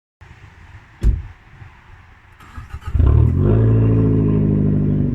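A car door thuds shut about a second in, then a car engine starts about three seconds in and runs steadily.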